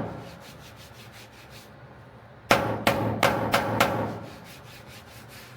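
A hammer tapping on the sheet-steel front fender, a quick run of about five sharp taps with a short metallic ring, tapping down high spots to level the panel. A few fainter taps die away in the first second or so.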